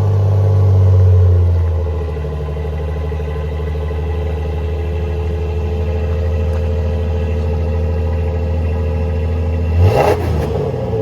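Ford Ranger engine on its stock exhaust running just after a cold start: the fast idle drops to a lower, steady idle about two seconds in. A brief burst of noise near the end.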